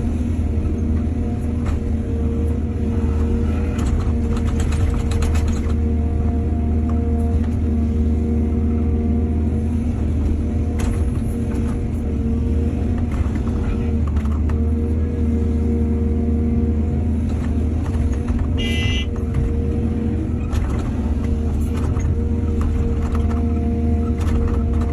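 Excavator's diesel engine running steadily with a deep hum, with scattered knocks and scrapes of work and one short high squeak about three-quarters of the way in.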